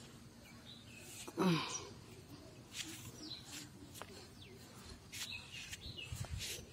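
Small birds chirping in the background, with scattered light clicks and one short voice sound, falling in pitch, about one and a half seconds in.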